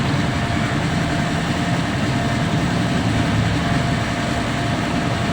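Steady mechanical drone: a low, even rumble with a faint constant tone above it, unchanging throughout.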